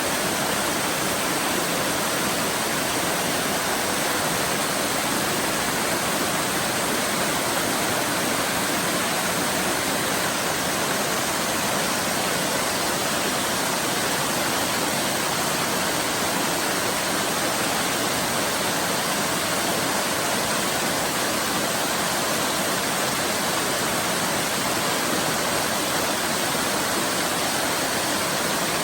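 Waterfall: the steady, unbroken rush of falling water, even throughout with no other events.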